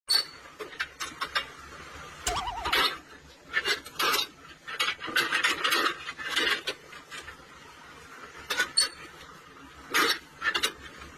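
Irregular clattering and knocking of hard objects, a dozen or more sharp hits and short scraping bursts spread unevenly.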